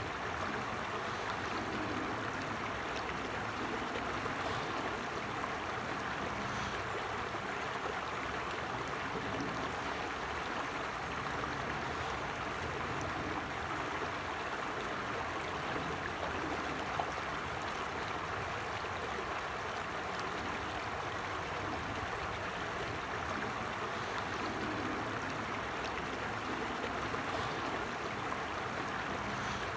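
A creek flowing over stones, a steady rush of running water with gurgling.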